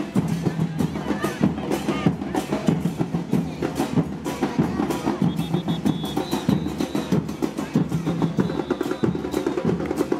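Carnival troupe's drums playing a fast, dense rhythm on bass drums and snare drums, with no pause.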